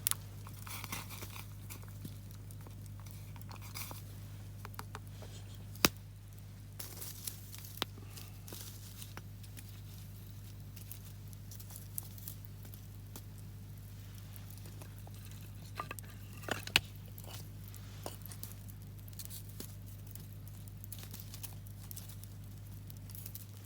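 Campfire crackling with scattered small pops and a few sharp louder snaps, over a steady low hum.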